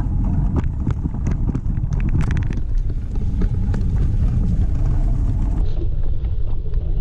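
Wind buffeting the microphone of a camera riding along on a moving bicycle: a loud, steady low rumble. Through the first few seconds there is a run of clicks and rattles from the bike going over the trail.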